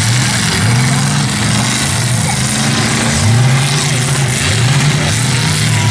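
Demolition derby cars' engines revving, the pitch rising and falling over and over, about once a second, with a broad exhaust roar underneath.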